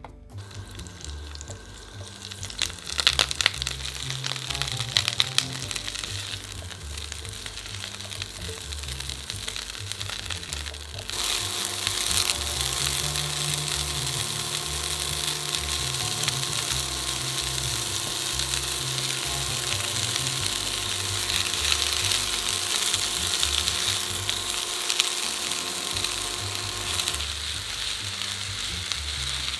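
Broccoli frying in oil in a cast-iron skillet, sizzling and being stirred with a wooden spatula, with a few clatters about three seconds in. The sizzle gets louder about a third of the way through and stays loud. Background music with a pulsing bass runs underneath.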